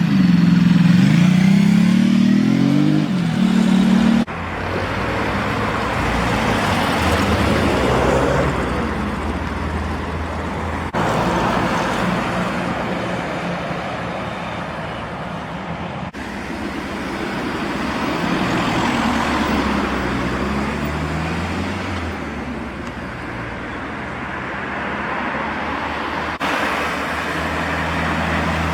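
Classic cars driving past one after another. An engine's pitch rises and falls as it revs in the first few seconds, then engine hum and road noise follow, changing abruptly several times.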